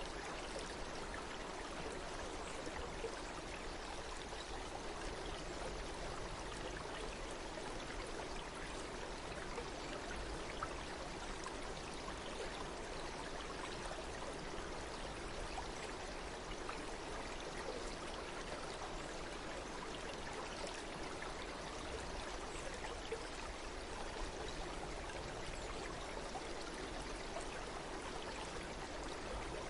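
A stream flowing steadily: an even rush of running water with small splashes throughout.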